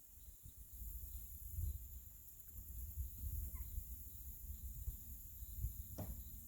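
Outdoor ambience: a steady high insect drone, typical of crickets, over a low uneven rumble of wind on the microphone, with a few faint chirps and a brief sharp click near the end.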